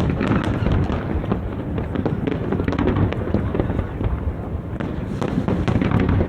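Fireworks show: a dense, continuous barrage of aerial shells bursting and crackling over a low rolling rumble, with the crackle thickening about halfway through and again near the end.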